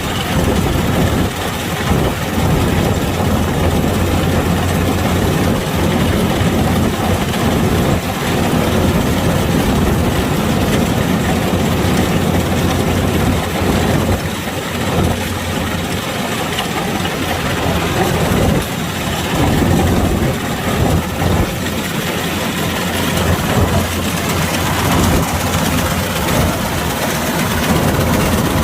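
Kubota DC-105X rice combine harvester running, its engine giving a steady low hum under a constant mechanical clatter and rush that rises and falls a little.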